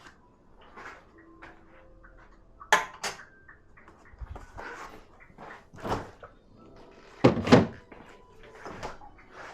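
Dishes clinking and knocking as they are handled at a dishwasher, a string of short sharp clatters with some brief ringing. The loudest knocks come about three seconds in and twice around seven and a half seconds in.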